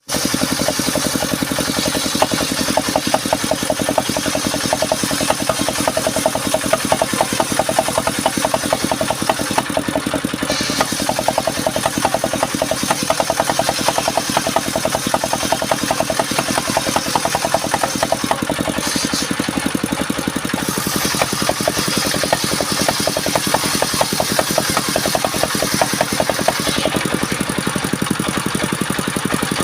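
Engine of a wood-sawing machine running steadily, with a rapid even pulse and a constant level.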